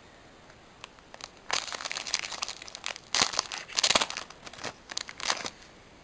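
Foil wrapper of a Pokémon booster pack crinkling and crackling as it is handled, with a few light clicks first, then a dense stretch of crinkling for about four seconds that stops near the end.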